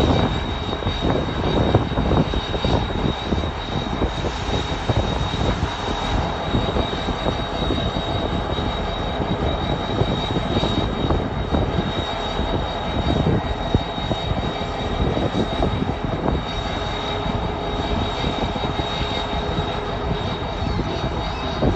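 Diesel locomotive engine running steadily: a constant low rumble with a thin high whine held throughout.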